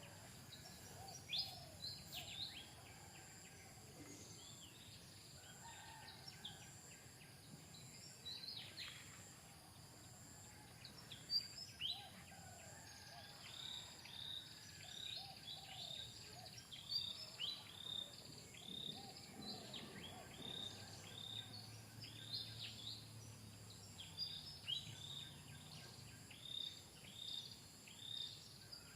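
Short, high-pitched chirping calls, each falling in pitch, repeating at about two a second through the second half, over a steady high insect hum.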